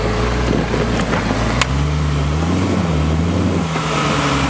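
Off-road Jeep's engine running as the vehicle works through deep snow, its engine speed stepping up a little about a second and a half in and wavering slightly after. A single sharp click sounds just before the change.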